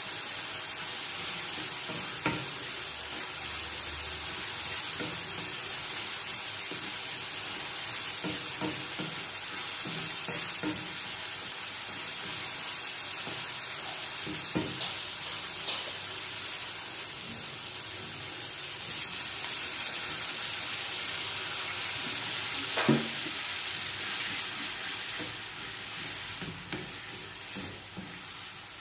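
Chopped onions and tomatoes sizzling in hot oil in a metal wok, with a wooden spatula scraping and knocking against the pan as they are stirred. There is one sharper knock about two-thirds of the way through, and the sizzle eases off near the end.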